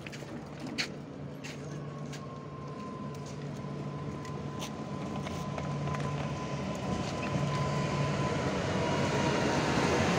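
Regional electric multiple unit pulling in beside the platform, growing steadily louder as it nears, with a low hum and a thin steady whine that sinks slightly in pitch as the train slows. A single sharp click about a second in.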